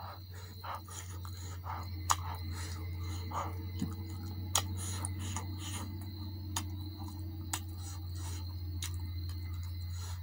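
Close-up chewing and wet mouth sounds of a person eating spicy chicken and rice, with scattered sharp lip-smacking clicks. A steady low hum runs underneath.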